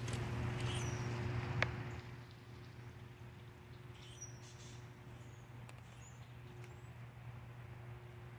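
Several short, high bird chirps scattered over a steady low hum, with one sharp click about one and a half seconds in.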